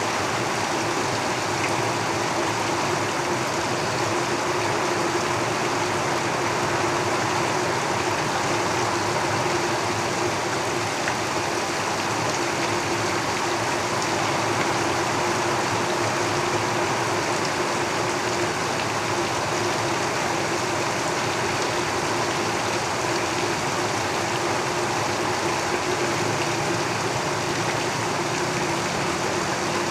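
Heavy rain falling steadily on a tin roof, an even rush with no breaks, with a faint low hum running under it.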